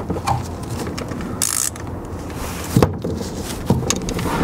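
Socket wrench with a T45 Torx bit turning out a car's oil drain plug: a few sharp metal clicks and knocks, with a brief hiss about a second and a half in.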